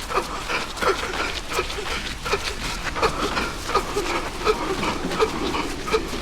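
A runner's wheezing breath: a short, squeaky, whistling note on every breath, coming in a quick steady rhythm with the footfalls of his running. Breathing hard mid-run, with an audible wheeze.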